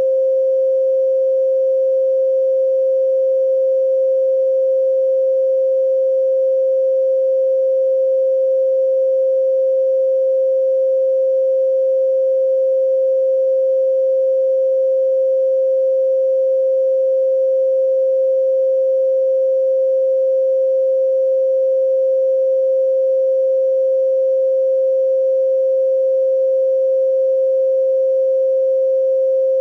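A steady 528 Hz pure sine tone, one unbroken pitch at an even level.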